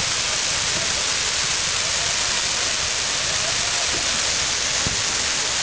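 Fireworks crackling: a dense, continuous crackle from a mass of small crackling stars, steady throughout with no separate bangs.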